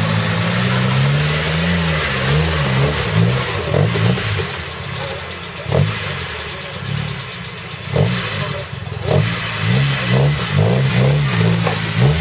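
Off-road trial 4x4's engine revving up and down again and again under load as the vehicle crawls up a steep, rough slope, with a few sharp knocks in the middle.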